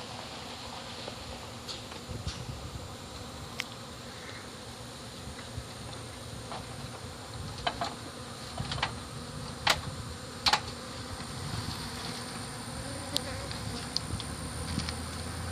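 Honeybees buzzing steadily around an opened hive. A few sharp knocks or clicks come in the middle, the loudest two about ten seconds in.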